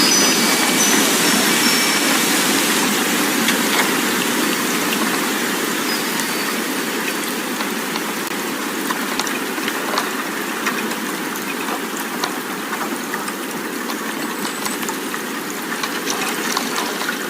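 Steady rushing wind that slowly eases, with a few faint high chime tones near the start and again about six seconds in, and light ticking in the second half.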